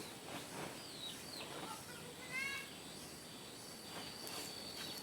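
Outdoor rural ambience. Short high bird chirps come about a second in, and a brief animal call follows about two and a half seconds in. From about three seconds on a steady high insect trill runs.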